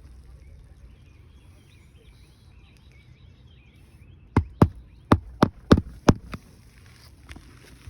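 Hammer driving a roofing nail into an asphalt shingle: six quick, sharp strikes over about two seconds, starting a little past halfway through.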